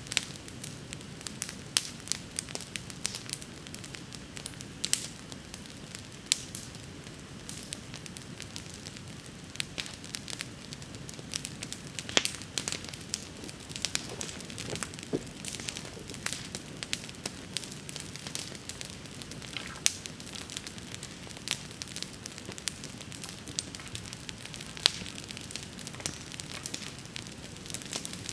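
Wood bonfire burning, with frequent irregular sharp crackles and pops over a steady low rush of flame.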